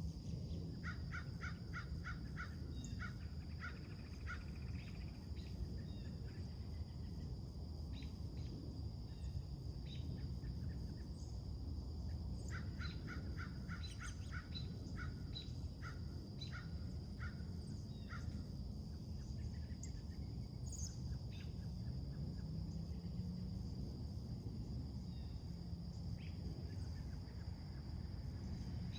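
Birds calling in quick runs of short, repeated notes, a few times over, with scattered single notes between. Under them runs a steady high-pitched drone and a low background rumble.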